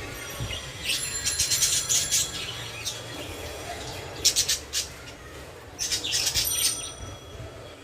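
Pet budgerigars chirping and chattering in three quick bursts, about a second in, about four seconds in and around six seconds in, over a low steady hum.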